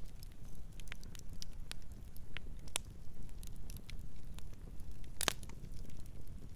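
Wood fire crackling: scattered sharp pops and snaps over a low steady rumble, with one louder pop about five seconds in.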